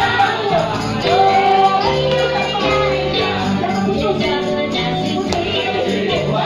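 Church worship song: voices singing a melody over instrumental accompaniment with steady held notes.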